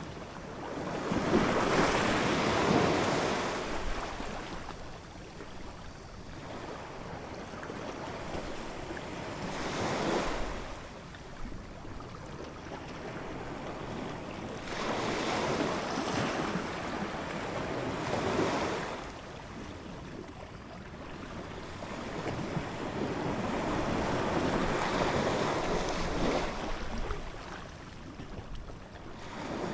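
Ocean waves breaking and washing on a shore, surging and ebbing in slow swells every several seconds.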